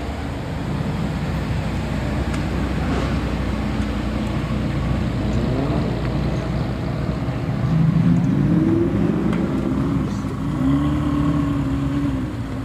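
Performance car engines running loud through their exhausts over a steady rumble. One engine's pitch climbs as it accelerates a little past halfway, and near the end an engine revs up and drops back twice in quick blips.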